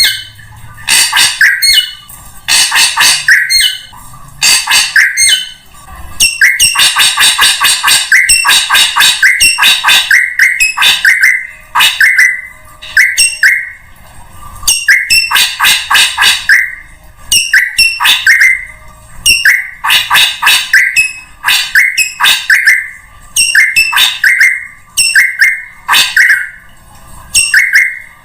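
Drongo lure-call recording: loud, harsh, chattering calls repeated in quick bursts with short gaps, and one longer unbroken run about six seconds in. It is used to draw birds in.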